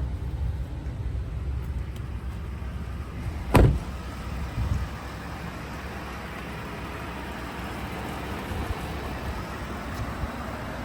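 A pickup truck door is slammed shut about three and a half seconds in, with a lighter thud about a second later, over a steady low rumble.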